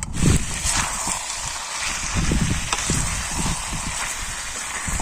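Gusty wind buffeting the microphone in irregular low rumbles, over a steady hiss.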